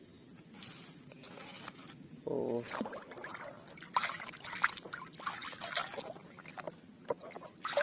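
Water splashing and trickling, with irregular clicks and knocks as muddy plastic toys are washed by hand. A short pitched sound comes about two and a half seconds in.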